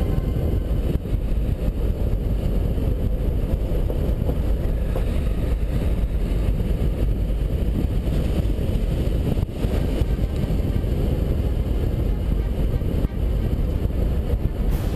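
Dacia Duster 1.5 dCi 4x4 driving: a steady, loud low rumble of engine and road noise.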